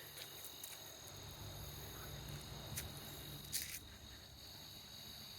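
Insects trilling in a faint, steady, high-pitched chorus of several pitches. Two short clicks sound about three seconds in, over a low rumble of walking.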